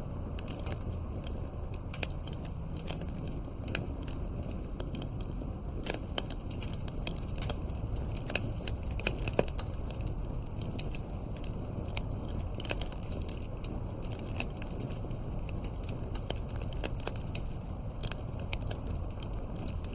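Campfire burning: wood crackling and popping at irregular intervals over a steady low rumble of the flames, with a few louder pops.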